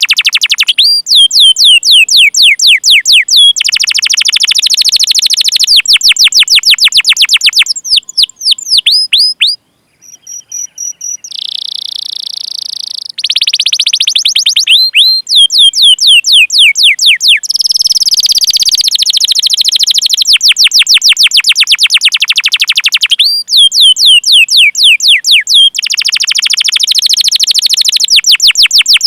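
Domestic canary singing a long training song: fast runs of repeated chirps, each a quick downward-sweeping whistle, alternating with dense rolling trills. The song breaks off briefly about ten seconds in.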